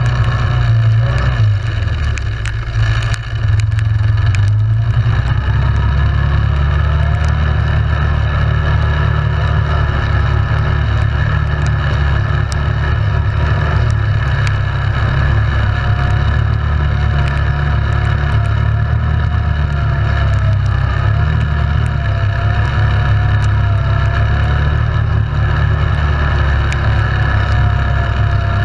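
ATV engine running steadily under way, its pitch wavering slightly, with a brief drop in level about three seconds in.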